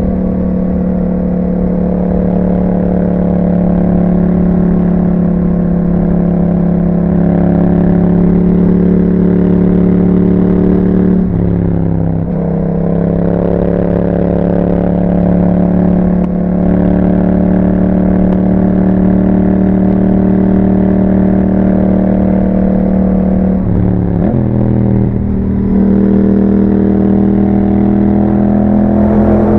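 2021 Yamaha MT-07's 689 cc parallel-twin running through an Akrapovič exhaust with a dB-killer fitted, pulling at a steady speed. The revs dip and recover twice, about eleven seconds in and again near the end, as with gear changes or throttle rolls.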